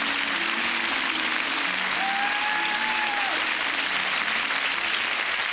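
Studio audience applauding steadily, with one long whistle from the crowd about two seconds in.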